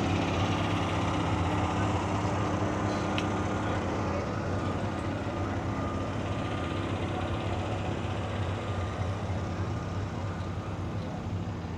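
Car engine with side exhaust idling, a steady low note that slowly grows fainter.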